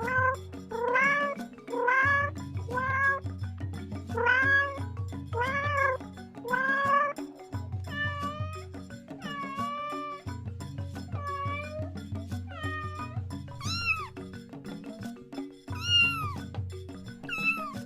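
Domestic cats meowing over and over, about one meow a second, some rising then falling and others falling and then holding; near the end the meows are higher-pitched and drop sharply. Background music with a steady low beat runs underneath.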